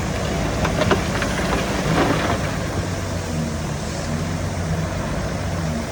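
Diesel engine of heavy earthmoving machinery running steadily, with a few short rattles and clanks about one and two seconds in.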